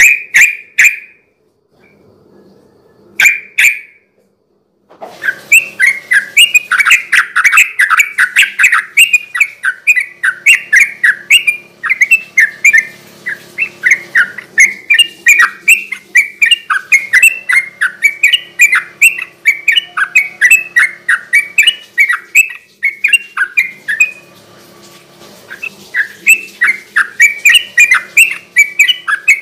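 Yellow-vented bulbul (trucukan) singing a rapid, chattering run of bubbly notes. Two short calls come first, then the song runs on almost without a break from about five seconds in, pausing once briefly near the end.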